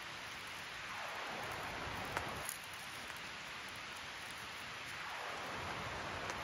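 Newly lit campfire kindling of fire starter and cardstock burning with a steady hiss and a couple of faint crackles.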